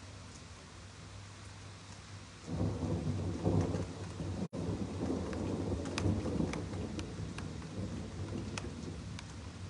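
Steady rain falling, then about two and a half seconds in a low rumble of thunder breaks in, loudest for a second or so and slowly rolling off. Sharp drips tick over the rumble in its second half, and the audio drops out for a split second partway through.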